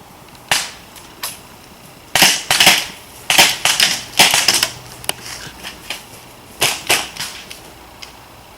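Airsoft guns firing: single sharp pops, then quick runs of several shots at a time, with a few fainter pops in between.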